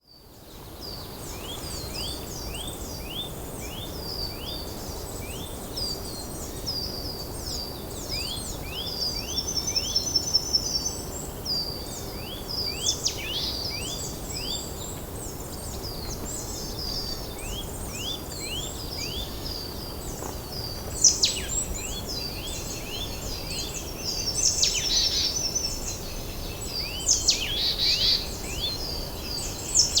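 Several wild songbirds singing at once, a busy chorus of short high sweeping chirps and whistles with a few fast trills, over a steady low background noise.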